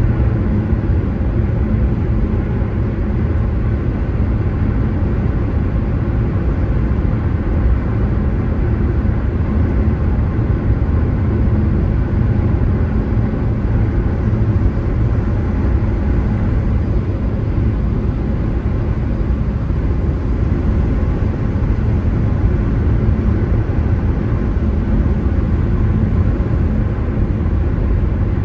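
Steady low rumble of a car on the move: tyre and engine noise, even throughout with no sudden events.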